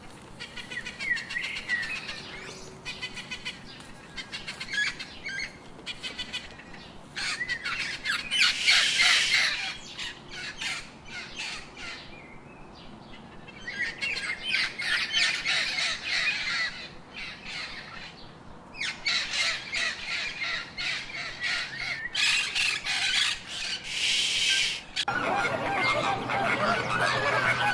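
Birds calling in repeated bursts of rapid, harsh chattering calls, with quieter gaps between the bursts.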